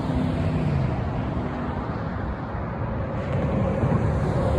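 A truck passing on the road, a steady rush of engine and tyre noise with a low engine hum that fades after the first second.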